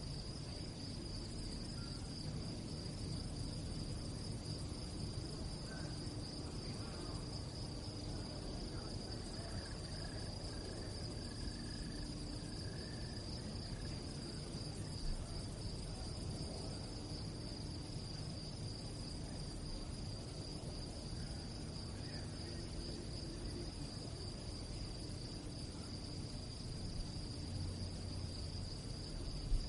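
Crickets chirping in one continuous, high, steady trill over a low background rumble.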